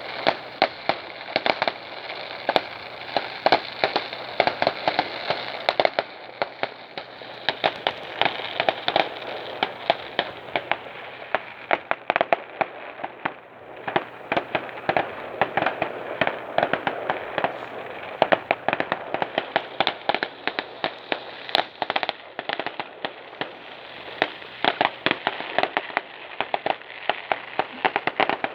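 Fireworks display: a continuous, irregular crackle of many sharp bangs and cracks, several a second.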